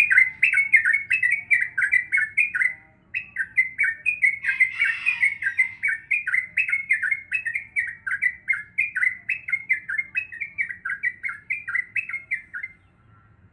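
Yellow-vented bulbul singing a fast, unbroken run of short chattering notes, about three a second. It breaks off briefly near the start and stops near the end.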